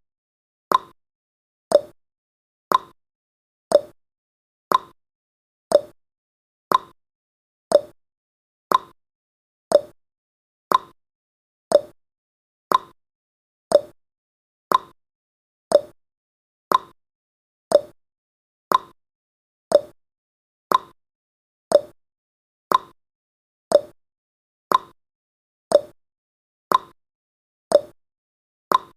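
Countdown timer's clock-tick sound effect: short sharp ticks once a second, alternating a higher and a lower pitch like a tick-tock.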